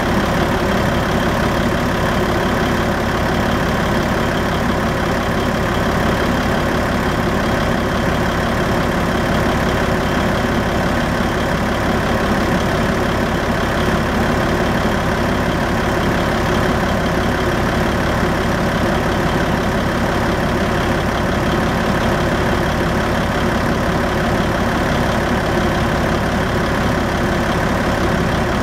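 American big-rig truck's diesel engine idling steadily, its even low rumble holding the same level throughout.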